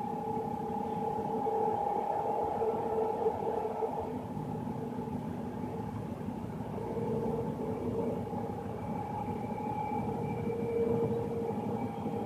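BART train running at speed, heard from inside the car: a steady rumble of wheels on rail with a steady whining tone held throughout.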